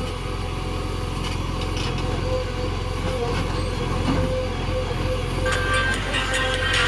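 Heavy diesel engine of earthmoving machinery running steadily, with light clanks over the top.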